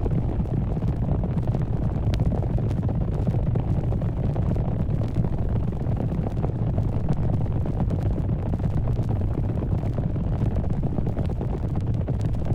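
A steady, low, dense rumble with faint scattered crackles, from a disaster sound-effects recording.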